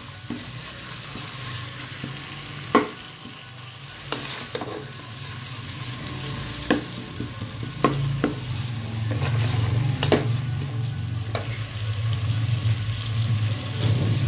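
Sliced onion, tomato, garlic and ginger frying in oil in a pressure cooker, sizzling steadily as a wooden spoon stirs them, with about seven sharp knocks of the spoon against the pot. A low hum grows louder from about eight seconds in.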